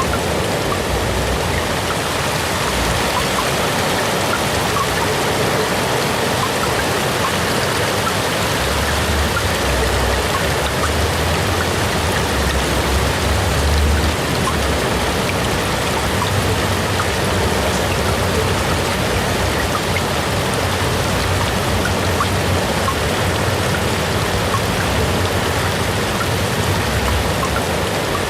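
AI-generated rain: a steady hiss of rainfall with scattered drop ticks. A low rumble swells and fades in the middle.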